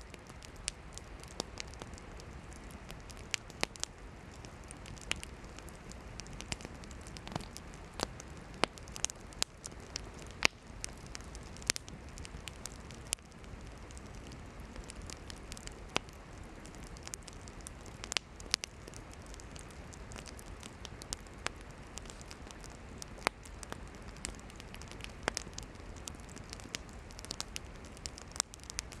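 Campfire of burning firewood crackling, with frequent sharp irregular pops over a steady hiss of the flames.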